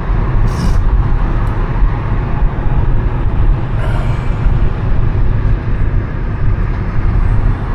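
Car driving: a steady low rumble of engine and road noise, with brief hisses about half a second and four seconds in.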